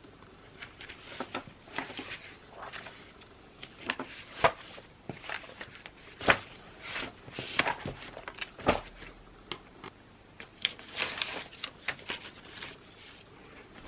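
Handwriting on paper: irregular short scratching strokes of a pen or pencil tip, with a few sharper taps against the desk.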